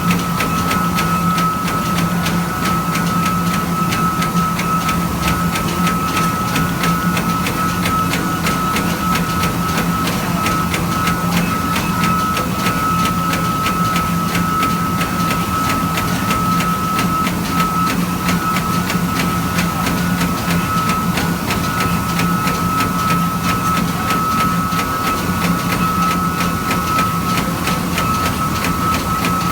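Eight-spindle CNC machine running steadily: a constant high whine over a lower hum, with a fast, dense clicking throughout.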